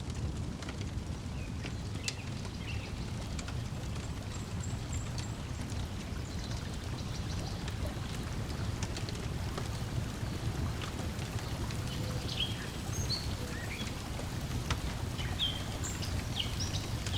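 Steady low wash of lake water lapping at the shore, with scattered short bird chirps and occasional light clicks from a crackling wood fire.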